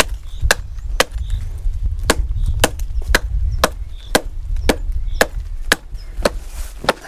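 Steel axe chopping into a willow trunk: a dozen sharp blows, about two a second, with a brief pause after the first few. The axe's blade is an insert of railway-carriage leaf-spring steel.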